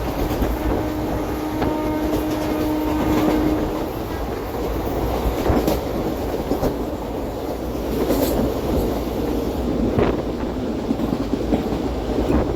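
Passenger train coach running at speed, its wheels clattering over rail joints with occasional sharp knocks, heard from inside the coach. A steady tone sounds for the first four seconds, then fades.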